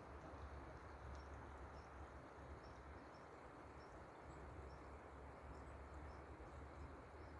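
Faint outdoor ambience: a steady low rumble and hiss, with scattered faint high chirps.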